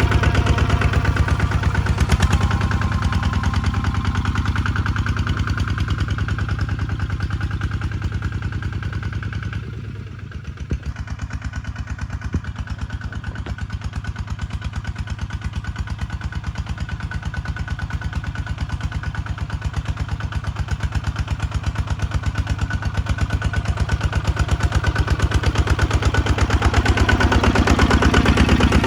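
Kubota tractor's diesel engine running with an even, rapid pulse. It dips in loudness briefly about ten seconds in, then picks back up and grows louder again near the end.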